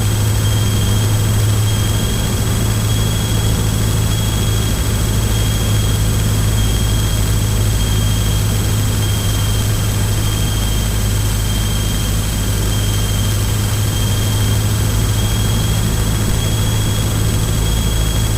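Single-engine Cessna's piston engine and propeller droning steadily inside the cabin, at reduced power for the descent in the landing pattern.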